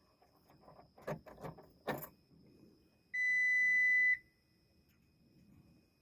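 A few knocks and clicks of climbing into a New Holland skid steer, then one steady high electronic beep about a second long from its dash: the warning tone as the key is switched on.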